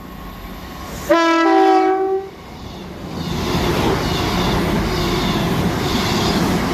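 Diesel multiple-unit train's two-tone horn sounding once about a second in, a squeaky lower note stepping up to a higher one for about a second. After it, the rumble of the train builds and runs on steadily.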